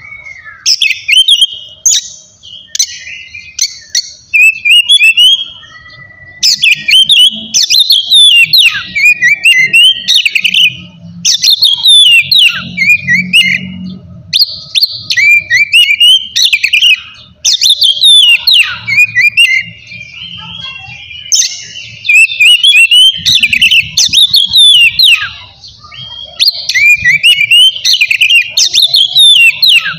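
Oriental magpie-robin singing loudly, with rapid, varied phrases of whistles and chattering notes in bursts of a second or three separated by short pauses.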